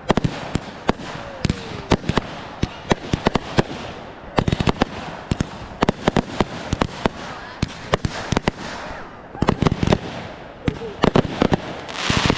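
Fireworks going off: a rapid run of sharp bangs and pops, thickening into crackling volleys about four and nine seconds in, with a rising hiss just before the end.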